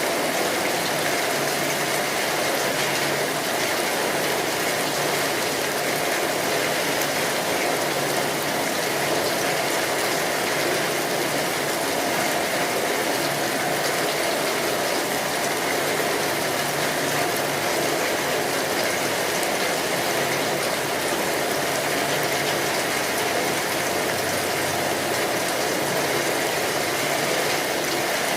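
Steady rainfall: a continuous, even hiss of rain that does not change.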